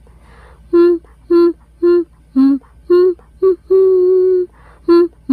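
A voice singing or humming a melody of short notes, about two a second, with one longer held note near the end.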